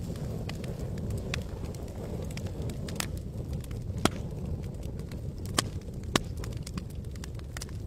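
Campfire crackling: irregular sharp pops and snaps, a few louder ones, over a steady low rush.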